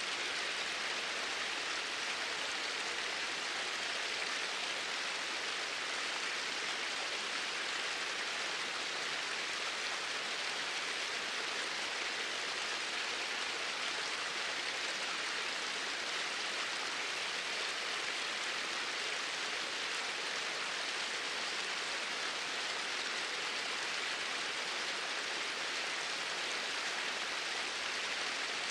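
Flowing water, a steady even rush with no breaks.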